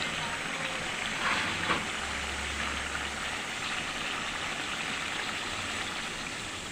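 Yogurt gravy with potatoes simmering and sizzling in a kadai, a steady bubbling hiss, with a couple of brief clicks about one and a half seconds in.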